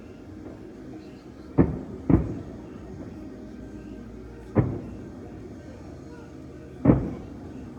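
Four aerial fireworks shell bursts, sharp bangs each followed by a short rolling echo, the first two about half a second apart, over a low steady background murmur.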